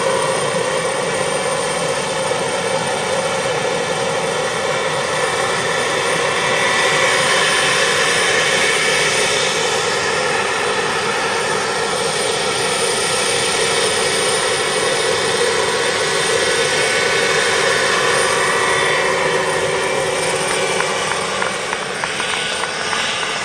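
Radio-controlled Mi-24 scale model helicopter running, a steady motor whine and rotor noise that eases off slightly near the end.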